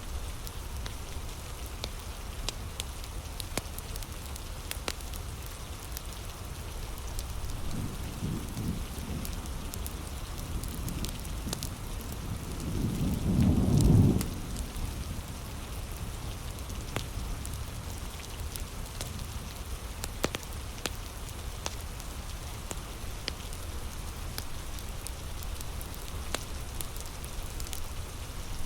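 Heavy rain falling steadily, with a wood fire crackling in sharp clicks and pops over it. About halfway through, a low rumble of thunder swells and fades, after a fainter one a few seconds earlier.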